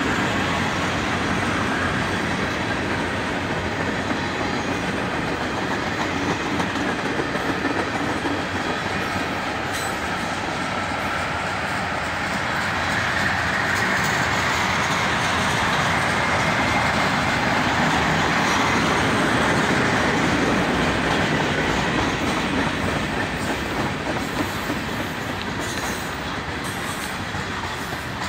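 Freight train's tank cars and covered hoppers rolling past: a steady noise of steel wheels running on the rails, easing off over the last few seconds.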